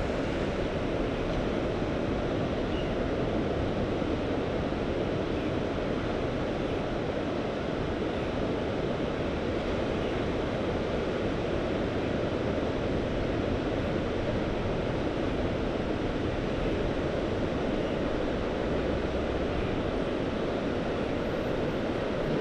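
Mediterranean sea surf and wind making a steady, even rushing noise, with no single breaking wave standing out.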